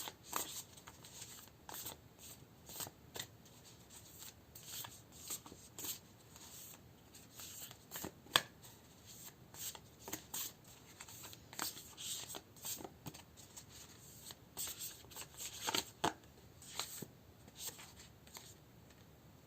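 A deck of spirit-animal oracle cards being shuffled and handled by hand: faint, irregular swishes and flicks of card against card, with one sharper snap about eight seconds in.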